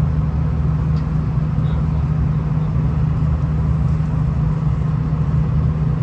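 V/Line VLocity diesel multiple unit under way: a steady low drone of engine and running noise, with a constant low hum.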